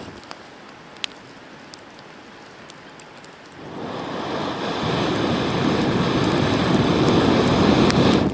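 Wood campfire crackling with scattered sharp pops. About three and a half seconds in, a rushing noise begins, swells steadily until it is loud, then cuts off abruptly.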